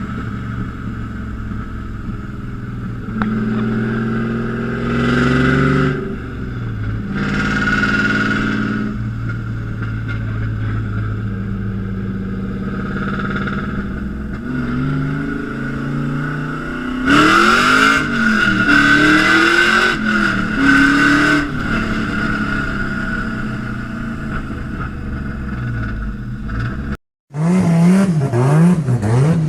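Tuned car engine idling and being blipped, with revs rising and falling a few seconds apart. A run of harder revs brings sharp crackling bangs from the exhaust: backfires on the overrun. After a brief break near the end, another engine revs up and down.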